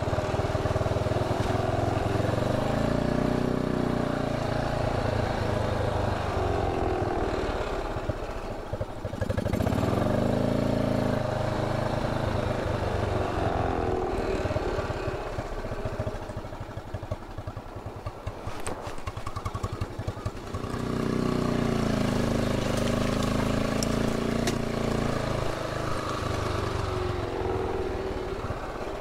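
BMW R27's single-cylinder four-stroke engine running as the motorcycle is ridden, its revs rising and falling again and again. It drops back for several seconds about halfway through, with a couple of short sharp clicks in the second half.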